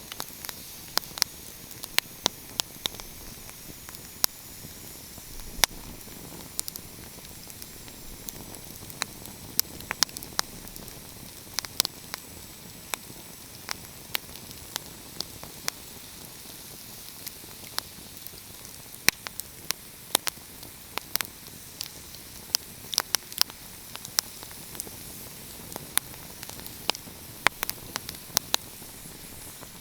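Wood fire crackling: a steady hiss with frequent sharp, irregular pops and snaps.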